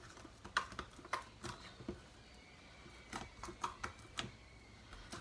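Homemade slime being worked by hand, giving irregular sticky clicks and small squelches.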